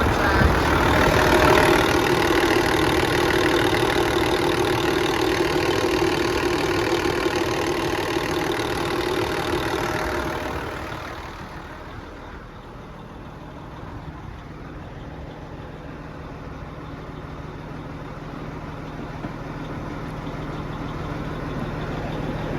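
An engine running loudly and steadily for about ten seconds, then dropping away to a much quieter, lower running speed with a steady low hum that slowly grows louder toward the end.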